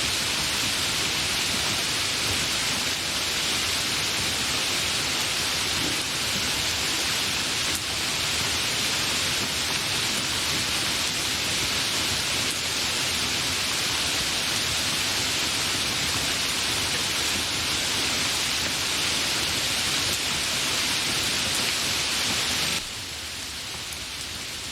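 Steady, fairly heavy rain falling as an even hiss, with no thunder. About 23 seconds in it cuts suddenly to a quieter, thinner stretch of rain.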